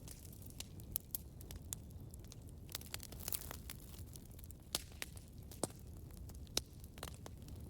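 Campfire crackling: irregular sharp pops and snaps over a low steady rumble of the flames, with a few louder pops scattered through.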